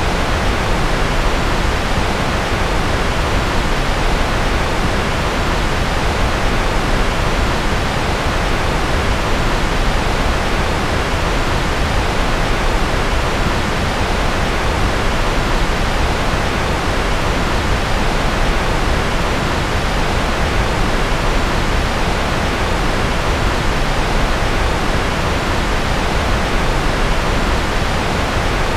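Steady, unchanging white noise, fuller in the low end than the high, with no breaks or other sounds.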